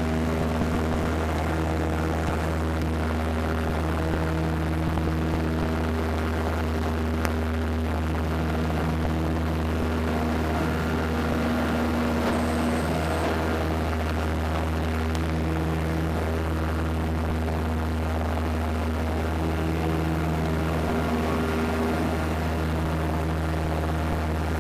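Propeller airliner's engines droning steadily, heard from inside the passenger cabin, with a slow rise and fall in the pitch lines every few seconds.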